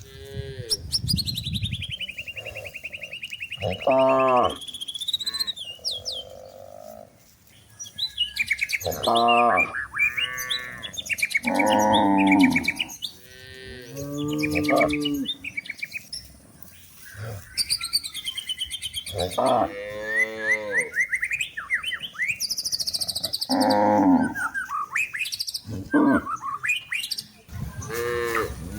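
Cows mooing again and again, a short call every few seconds, with birds chirping and whistling higher up over them.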